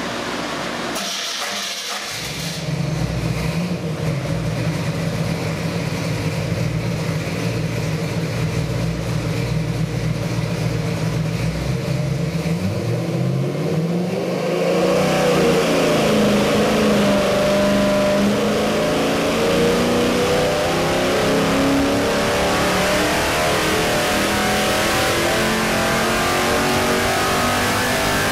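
Chevy 327 small-block V8 crate engine with a Holley carburetor, running on an engine dyno. It runs steadily at low revs for about the first half, then climbs steadily in pitch under load through a sweep test to nearly 6,000 rpm near the end.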